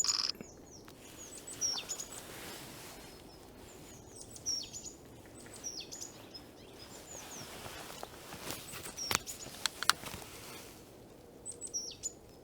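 Many small songbirds chirping with short, high calls scattered throughout, over a steady background hiss. A brief noisy burst right at the start and a few sharp clicks around the two-thirds mark.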